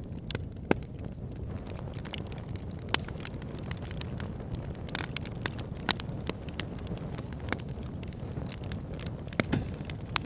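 Wood fire burning in a fireplace: a steady low rumble of flames with frequent, irregular sharp crackles and pops from the burning logs, a few louder pops standing out.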